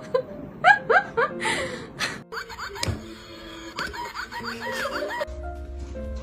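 A person snickering and laughing in short, rising, squeaky bursts. Music with a steady bass starts about five seconds in.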